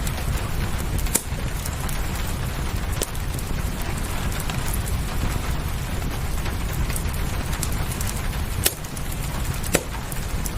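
Wood fire crackling with scattered sharp pops, the loudest near the end, over a steady rush of rain with a low rumble.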